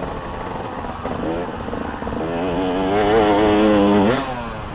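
Motocross dirt bike engines revving: a short rise about a second in, then an engine held high and wavering for about two seconds before the revs drop sharply off-throttle near the end.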